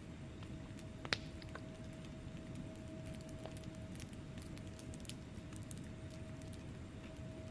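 Log fire crackling in a fireplace: a steady low rumble of burning with scattered sharp pops and snaps, and one louder crack about a second in. A faint steady hum runs underneath.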